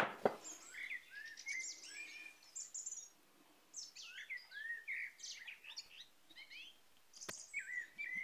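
Songbirds chirping and singing faintly, with many short rising and falling notes, and a single sharp click about seven seconds in.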